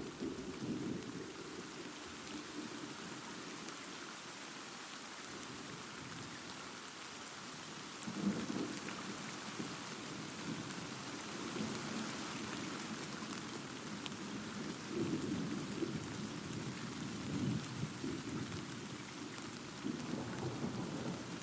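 Steady rain falling, with rolling thunder swelling and fading in low rumbles several times: near the start, about eight seconds in, and again later on.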